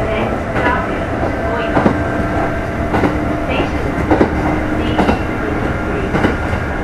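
Kintetsu 2430-series electric train running, heard from inside motor car Mo 2438: a steady rumble with a faint steady hum from the motors and gearing, and wheels knocking over rail joints about once a second.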